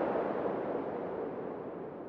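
Wind blowing: a steady rushing noise that fades gradually quieter.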